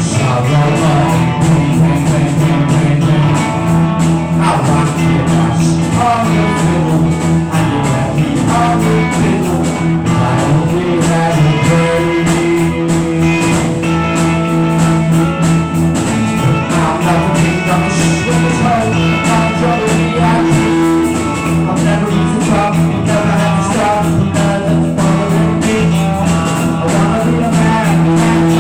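Loud, continuous rock music with guitar, over a sustained low note.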